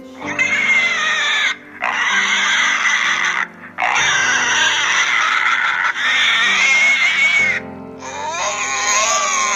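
Pigs squealing in four long, high-pitched calls with short breaks between them, over background music.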